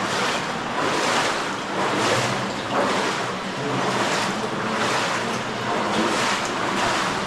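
Flowing water rushing and splashing in a steady wash that swells about once a second.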